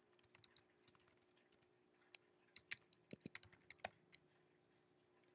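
Faint computer keyboard typing: scattered keystrokes, bunched into a quick run about two to four seconds in.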